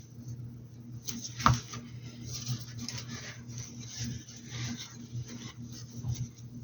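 Paintbrush strokes on a hat: light scratchy brushing and dabbing over a steady low hum, with one sharp tap about one and a half seconds in.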